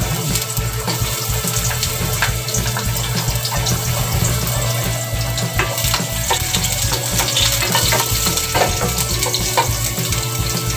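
Chopped garlic and ginger sizzling as they sauté in a hot non-stick frying pan, stirred with a wooden spoon, with scattered light scrapes and taps against the pan.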